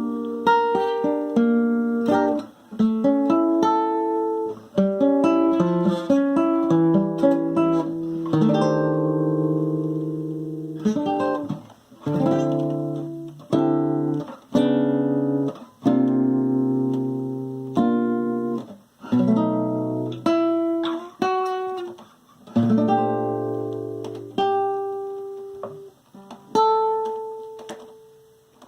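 An acoustic guitar played solo, a series of chords struck and left to ring. A final chord fades out near the end.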